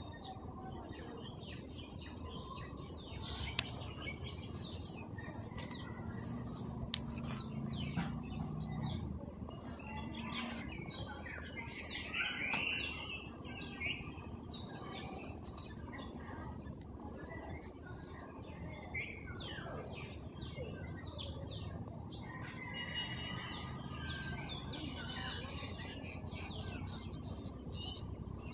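Small birds chirping and twittering on and off, over a steady low background noise, with a few sharp clicks in the first several seconds.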